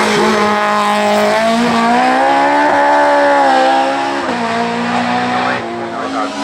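Race car engine running hard, its pitch rising for about two seconds, then dropping sharply about four seconds in and again near the end as it shifts gear or lifts off.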